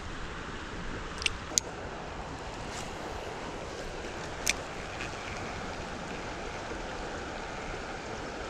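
Creek water running steadily, a continuous rushing hiss, with a few brief sharp clicks, two close together about a second in and one more near the middle.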